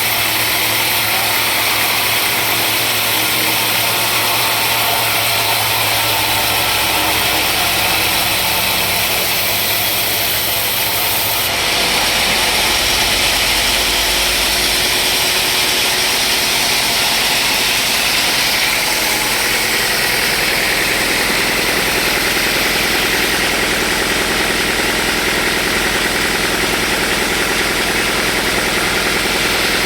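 Sawmill machinery running steadily with a loud, even mechanical drone; its tone changes abruptly about eleven seconds in.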